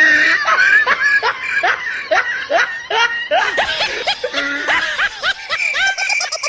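A person laughing in a long run of quick, rhythmic bursts, about three a second; a steady high tone joins near the end.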